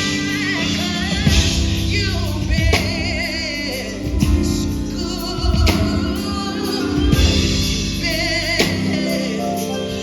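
A woman singing a song live with vibrato, backed by a band with drums, through a PA system.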